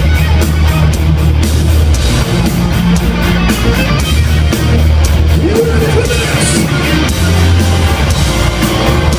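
Heavy metal band playing live and loud: distorted electric guitars, bass and drums with steady cymbal hits, and a bending guitar or vocal line about midway.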